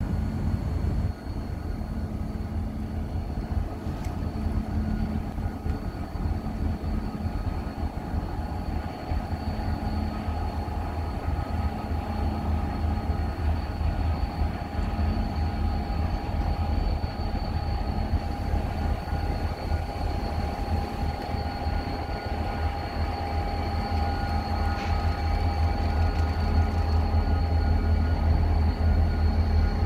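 Freight train hauled by two Renfe diesel locomotives: a steady, deep engine rumble with a thin high whine over it, slowly growing louder toward the end.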